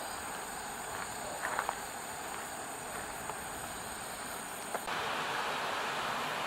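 Insects chirring in a steady high-pitched drone, with a few soft footsteps. About five seconds in it cuts off abruptly into a louder, steady rushing noise.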